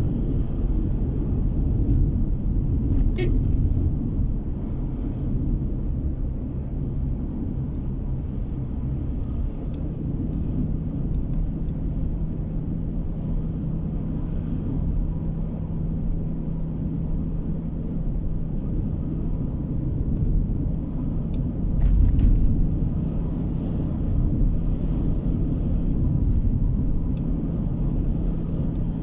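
Car driving on the road, heard from inside: a steady low rumble of tyre and road noise and engine. About a third of the way in a steady hum joins it, and there are a couple of brief knocks, one near the start and one about three-quarters of the way through.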